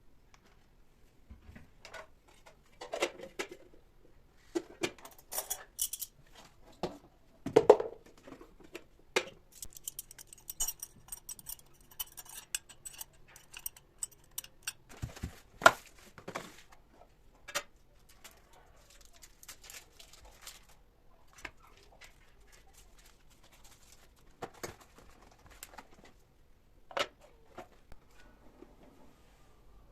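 Kitchenware being handled: scattered clinks, taps and knocks, the two loudest about 8 and 16 seconds in, with a stretch of light pattering in the middle.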